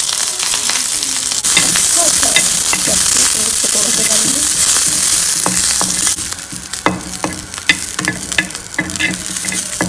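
Green chillies sizzling in a cast-iron frying pan while a slotted spatula stirs them. The sizzle gets louder about a second and a half in and eases after about six seconds, with the spatula clicking and scraping against the pan.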